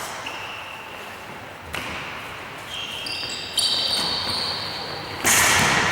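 Tchoukball play echoing in a sports hall: three sharp ball thuds, the loudest near the end. Between the second and third thud come short high squeaks of sneakers on the court floor.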